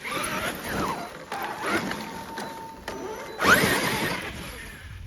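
Traxxas X-Maxx 8S RC monster truck driving hard, its electric motor whining up and down in bursts with the throttle over the tyre noise. The loudest burst, with a rising whine, comes about three and a half seconds in.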